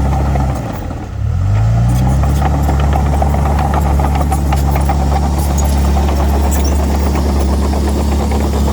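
Komatsu D31 bulldozer's diesel engine sagging in speed about half a second in, then picking back up within a second or so and running steady at high revs, with scattered clicks and rattles.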